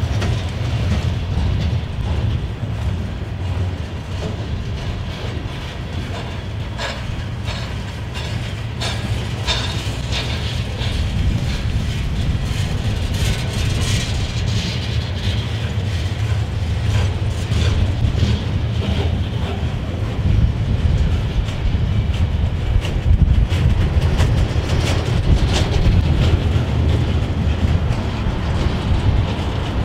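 Freight train of covered steel-coil cars rolling past: a steady low rumble of wheels on rail, with frequent clicks and clanks as the wheels pass over the rail joints.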